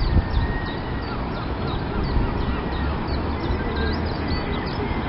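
Birds chirping repeatedly: many short, high calls that slide downward, over a steady low rumble.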